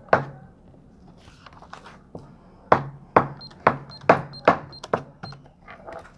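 A metal spoon knocking sharply against the bowl while the slime is scraped off it: one knock, then a quick run of about seven knocks, roughly two a second, each ringing briefly.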